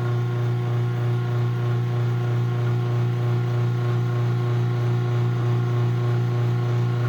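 Craftsman 139.57915 garage door opener motor running at a steady low hum as it drives the door, started from its motion-detecting wall button.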